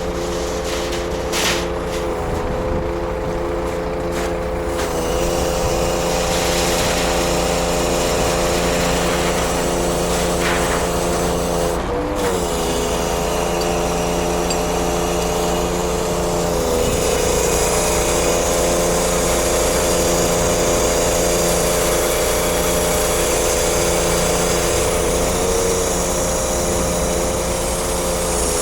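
Scania truck's engine running steadily at a constant speed, its pitch dipping briefly about four times.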